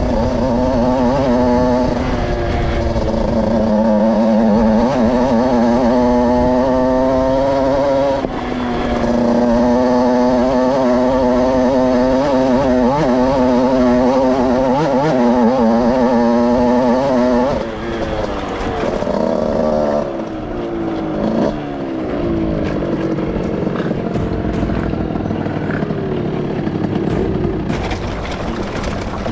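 Two-stroke small-capacity motorcycle engine, kitted to around 80cc, running hard at steady high revs. It dips briefly about 8 s in. For the last third it falls away to lower, varying revs.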